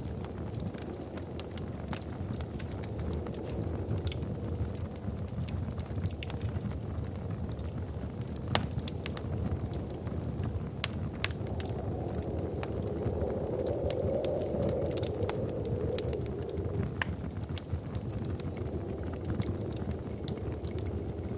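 Wood fire burning in a fireplace: a steady low rush of flame with sharp crackles and pops scattered irregularly through it. The rush swells a little about halfway through.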